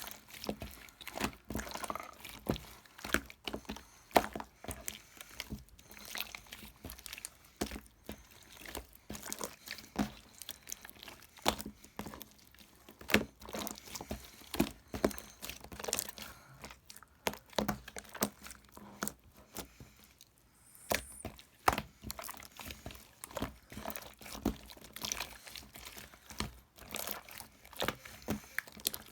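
Irregular small clicks, taps and crinkles, often several a second, from something being handled or worked close to the microphone.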